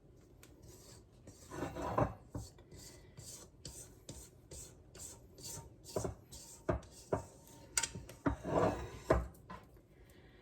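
A spatula scraping thick brownie batter from the sides of a mixing bowl in quick repeated strokes, about two a second, with several louder knocks of the spatula against the bowl.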